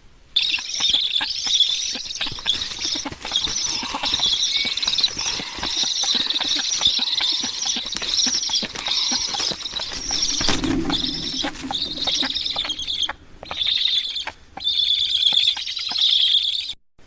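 Birds calling in a dense, high-pitched, rapidly wavering chatter, broken by two short pauses near the end. A low rustling thud about ten and a half seconds in.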